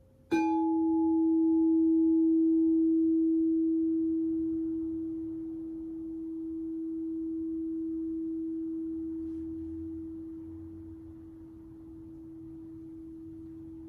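Crystal singing bowl struck once, about a third of a second in. It rings on one steady low tone that slowly swells and ebbs as it decays. A brighter overtone dies away within the first few seconds.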